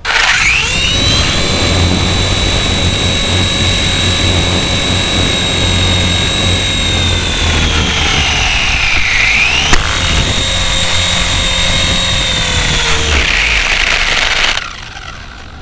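Miniature RC helicopter's electric motor and rotor spinning up into a high, steady whine in flight. About halfway through the whine dips in pitch and climbs back, and near the end it drops and cuts off as the motor stops.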